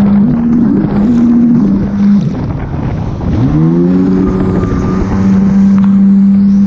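Jet ski engine running under throttle against the rush of water and wind. About two seconds in the throttle drops off, then the engine revs back up in a rising whine and holds a steady pitch.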